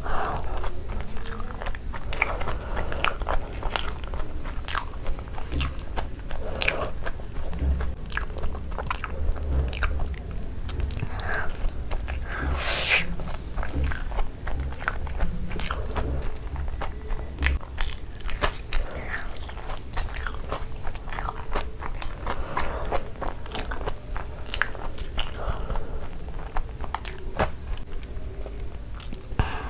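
Close-miked chewing and crunching with the mouth full: wet mouth sounds and many sharp crunches as noodles and Cheetos-crusted cheese balls are eaten, with a fresh bite taken into a cheese ball near the end.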